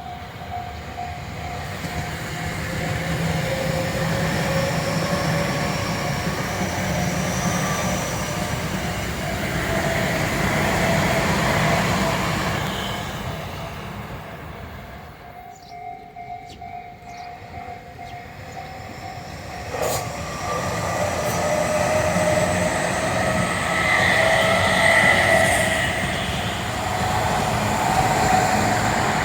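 Tobu Tojo Line electric trains passing, one and then another after a lull about halfway. There is rumbling wheel and rail noise with a steady whine over it, and a sharp click just as the second train comes in.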